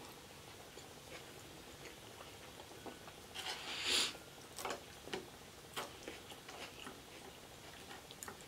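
Close-up eating sounds: quiet chewing of loaded fries with scattered soft clicks. About three and a half seconds in, a louder scrape as a plastic fork digs into the fries on the tray.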